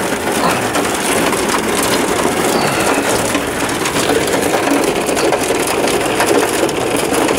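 Heavy rain pelting the roof and windows of a camper van, heard from inside as a dense, steady crackle of drops.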